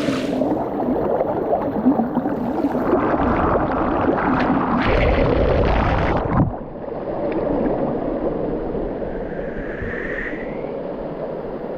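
Rushing water of a small waterfall, a steady noisy wash, with a louder rush of noise in the middle that cuts off suddenly about six and a half seconds in.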